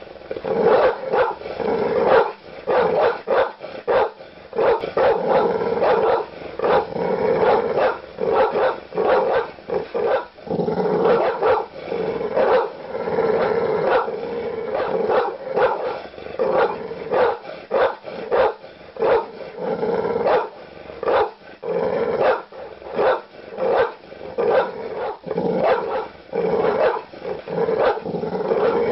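Large dogs barking aggressively and without letup, rapid deep barks coming two or three a second.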